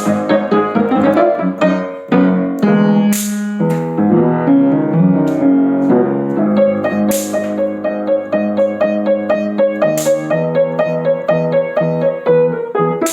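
Piano music playing chords and running notes, with a short hissing crash high up every few seconds.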